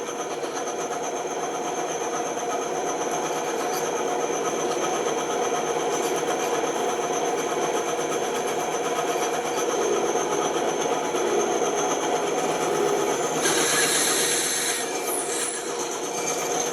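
Bandsaw running and cutting wood, a steady whir with the rasp of the blade in the wood; the high hiss grows louder for a second or two near the end.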